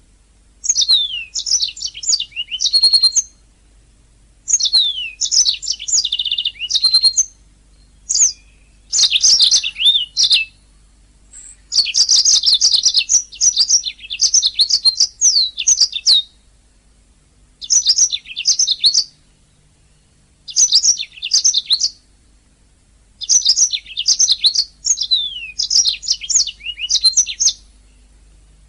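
Domestic canary singing: fast bursts of high chirps, rolls and trills, each phrase lasting one to four seconds with short pauses between, over a faint steady hum.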